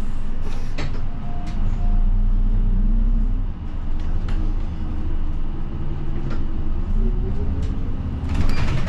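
City bus engine accelerating as the bus pulls away from a stop, heard from inside the cabin over a steady road rumble with small rattles. The engine note rises, drops back about three and a half seconds in, then climbs again.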